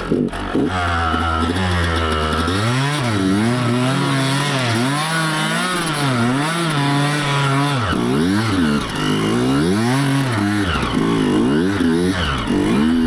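Dirt bike engine being revved up and down over and over, its pitch rising and falling about once a second as the throttle is worked. It runs at a steadier, lower note for the first couple of seconds before the swings begin.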